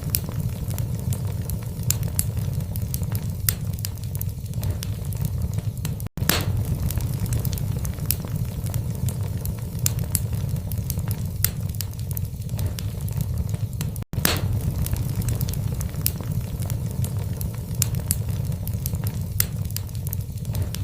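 Logs burning in a fireplace: a steady low rumble of the fire with scattered sharp crackles and pops. The sound cuts out for an instant twice, about every eight seconds, where the looped recording restarts.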